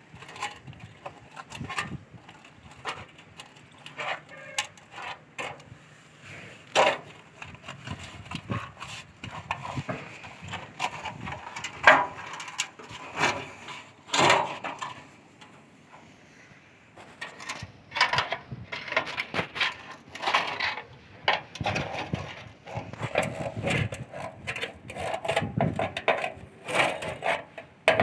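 Irregular wooden knocks, taps and clatter of wood being handled and worked, with sharper strikes here and there.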